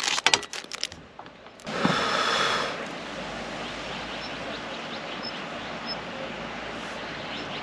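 Plastic wrapper crinkling in the first second, a short louder hiss about two seconds in, then steady rain falling.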